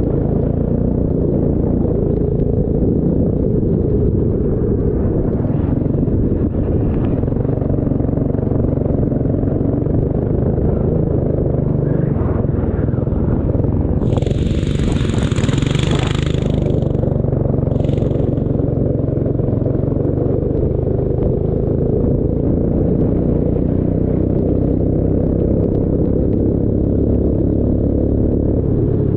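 Racing vehicle's engine running steadily at speed, with a short hissing burst about halfway through.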